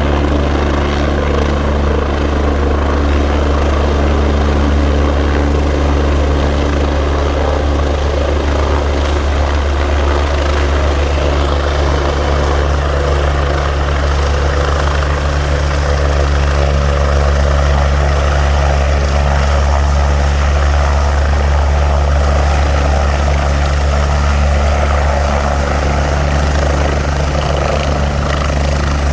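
Helicopter running steadily at close range: a loud, even rotor and engine drone with a faint high whine above it.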